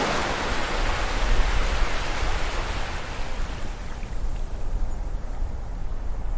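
Sea wave washing up the beach, its hiss loudest at the start and slowly fading as the water draws back, over a steady low rumble of surf.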